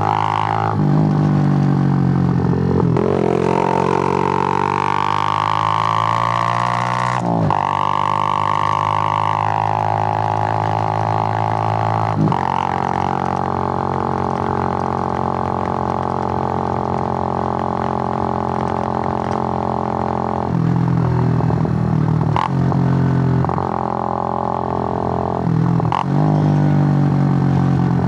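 Suzuki GN125's air-cooled single-cylinder four-stroke engine under way, its pitch climbing then dropping sharply at each upshift three times, then holding steady while cruising before several more changes in pitch near the end.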